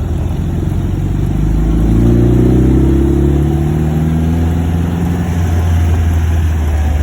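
1949 MG YT's 1250 cc four-cylinder engine pulling the car under load up a hill: the revs climb about a second and a half in, then ease off and settle lower.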